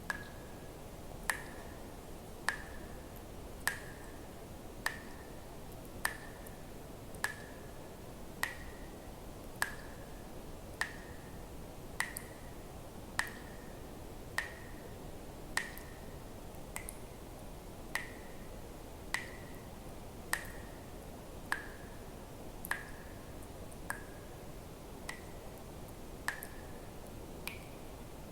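Water drops falling one by one at an even pace, about one every 1.2 seconds, each a sharp plink with a short ringing tone, over a faint steady hiss. Near the end a drop rings at a higher pitch.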